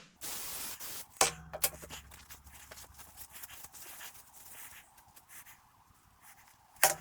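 A short hiss of spray lasting about a second, then scattered light clicks and clatter of handling in a workshop.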